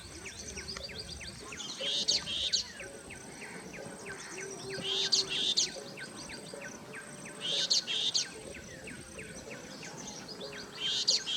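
Birds calling in forest: a loud, high double call repeats four times, about every two and a half seconds, over a steady stream of quick, short chirps and a thin, steady high insect whine.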